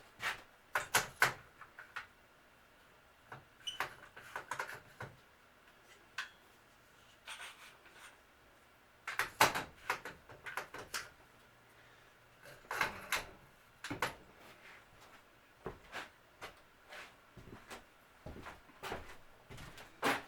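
Intermittent knocks, clacks and clatter in short clusters, from workpieces and tools being handled on a workbench, with quiet gaps between; the loudest knock comes about nine and a half seconds in.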